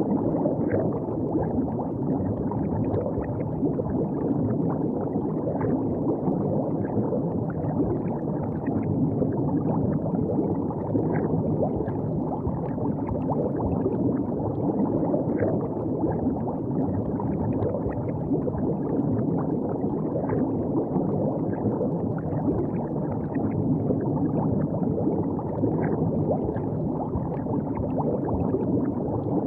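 River water running steadily with a continuous low gurgle and many small splashes.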